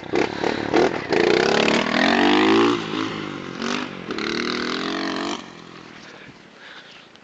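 Pit bike's small engine revving, its pitch climbing in a long pull about a second in, easing, then held high again around four seconds in before dropping away to a faint sound after about five and a half seconds.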